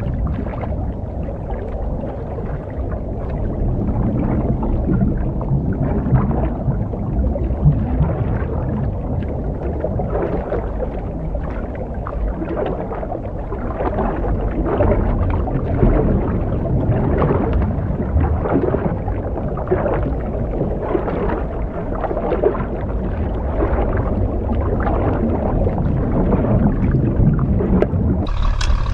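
A scuba diver's breathing heard underwater: a low steady rumble with irregular gurgling bubbles from the regulator. Near the end a sharper hiss with steady tones cuts in.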